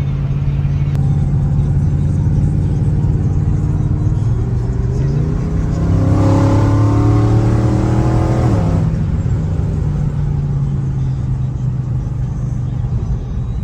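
Car engine while driving, running steadily, then climbing in pitch as the car accelerates about four seconds in, strongest for a few seconds, then dropping back to a steady cruise.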